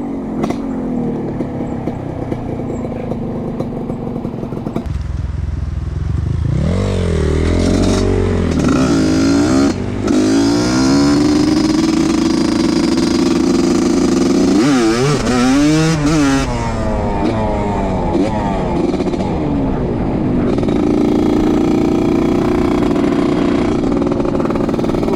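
Trail motorcycle engine running under load, revved up and down in surges twice, with a steady drone in between.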